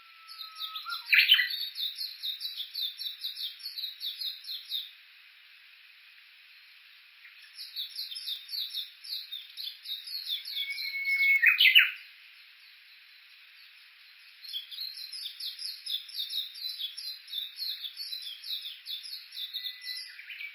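Japanese bush warbler (uguisu) calling in three long runs of rapid, evenly repeated notes, each run lasting about four to five seconds with short pauses between. A louder sweeping note comes about a second in and another near the end of the second run.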